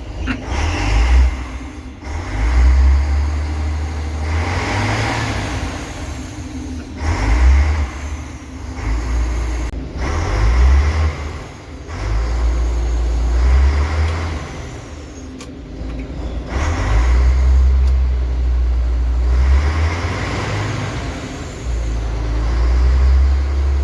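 Diesel engine of a Volvo Olympian double-decker bus being revved again and again, about every two to three seconds, dropping back towards idle between revs.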